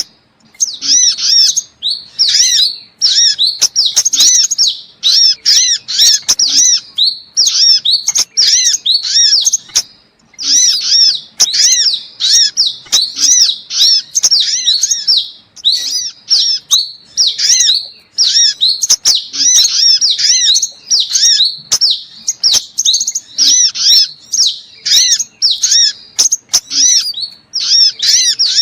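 Sunbird lure calls: loud, high-pitched chirps and twittering trills repeated in fast, continuous series, with only brief pauses. The recording mixes crimson sunbird, brown-throated sunbird and spiderhunter calls.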